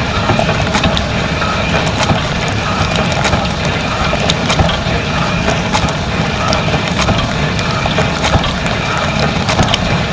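Dishwasher running a wash cycle, heard from inside the tub: water spraying and splashing steadily over a low pump hum, with frequent sharp clicks and knocks.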